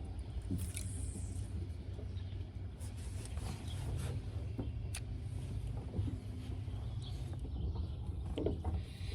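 Open-water boat ambience: a steady low rumble with scattered light clicks and knocks.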